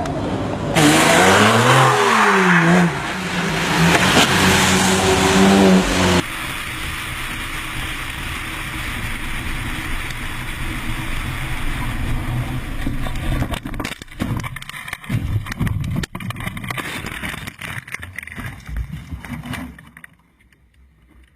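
Car engine revving up and down for about five seconds, then cut off abruptly and replaced by steady road and tyre noise from a moving car, with irregular knocks and rumbles that fade out near the end.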